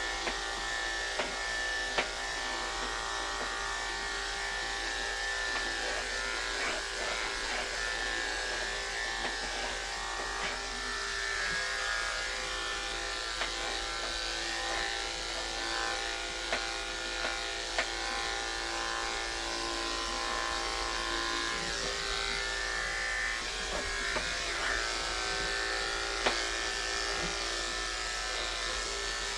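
Andis electric pet clippers running steadily as they shave a cat's matted coat, a constant motor hum with a few short clicks scattered through.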